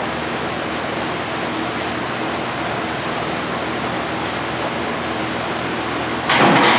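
A steady, loud rushing noise with a faint hum, like a blower or fan running. A brief, louder burst of noise comes near the end.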